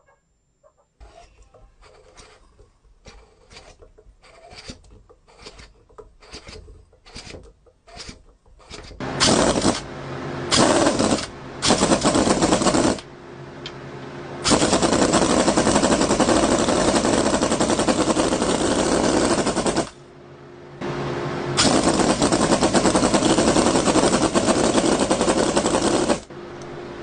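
Custom-built engine starting: a string of separate pops at first, then running loud in stretches that stop and start again several times, with a steady stack of tones while it runs, and cutting off suddenly near the end.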